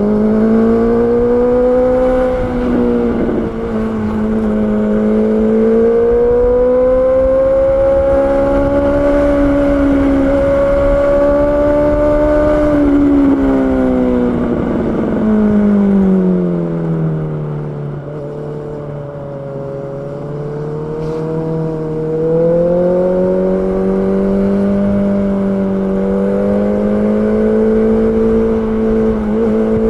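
Honda CB650R's inline-four engine running under way, its pitch rising and falling with the throttle. About halfway through it eases down to a lower, quieter note for a few seconds, then climbs back up.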